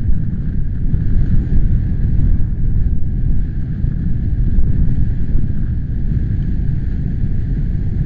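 Wind buffeting the microphone: a loud, low, uneven rumble that gusts up and down.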